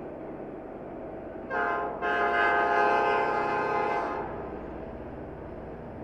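Diesel locomotive air horn sounding a short blast about one and a half seconds in, then a longer blast of about two seconds, over the steady low rumble of the EMD locomotives' engines.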